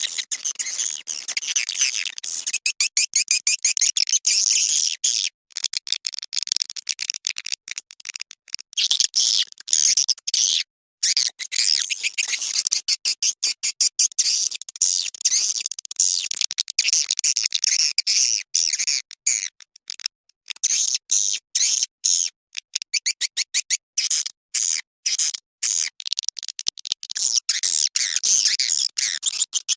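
Recorded swiftlet calls used as a lure sound for a swiftlet house: rapid, high-pitched twittering chirps in long runs, broken by a few short pauses.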